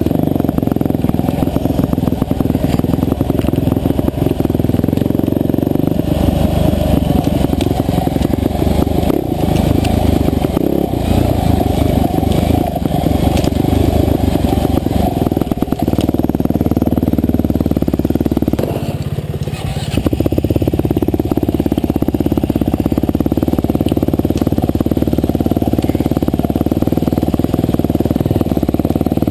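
Husqvarna TE511 single-cylinder four-stroke dirt bike engine running under changing throttle, with a brief easing off about two-thirds of the way through before it picks up again.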